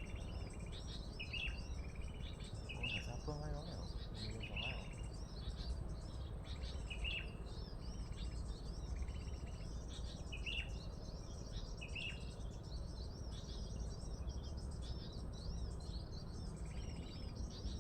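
Small birds chirping and trilling: sharp chirps repeated every second or two over a continuous chatter of quick arching notes, with a steady low rumble of background noise underneath.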